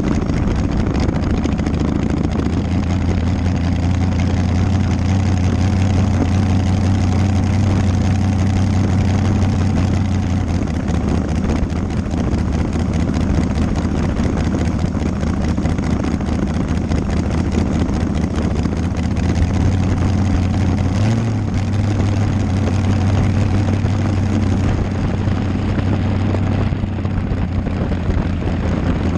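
Dragster's engine running steadily at low speed, a loud low drone, with a brief blip about two-thirds of the way in.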